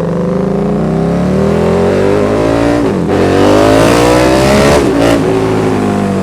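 KTM 1290 Super Duke R's 1301 cc V-twin, run through a RaceFoxx link pipe and Pipewerx slip-on exhaust, accelerating hard. The revs climb, drop sharply at an upshift about three seconds in, climb again and drop at a second shift about five seconds in. The exhaust note is loud.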